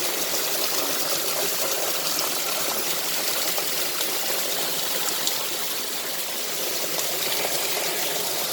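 Waterfall water rushing and splashing in a steady, even hiss.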